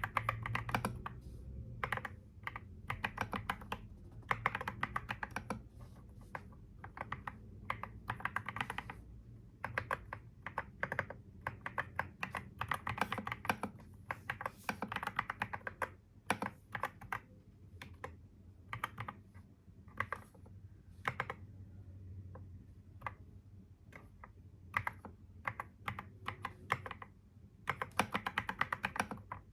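Typing on a computer keyboard: quick irregular runs of key clicks with short pauses between them, over a low steady hum.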